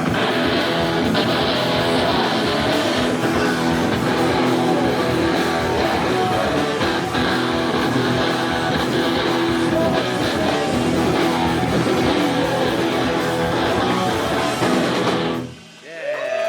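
Rock band playing live, electric guitars to the fore over bass and drums, until the song stops abruptly about a second before the end.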